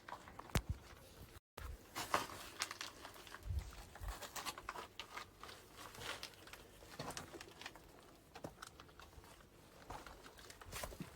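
Irregular crackling and rustling with scattered light clicks, and a dull low thud about three and a half seconds in; the sound cuts out completely for a moment about a second and a half in.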